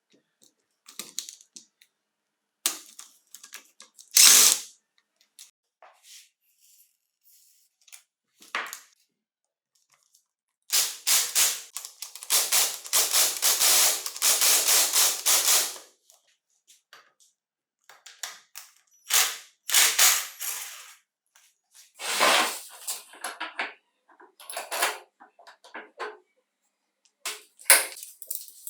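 Hand tools working on the metal parts of a bench polisher: scattered sharp clicks and knocks, with about five seconds of rapid, evenly spaced clicking starting about eleven seconds in.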